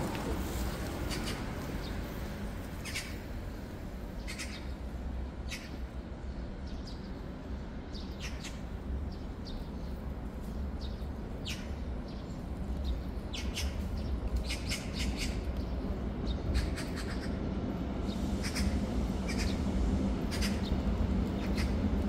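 Small birds chirping in short, sharp calls scattered throughout, over a steady low rumble.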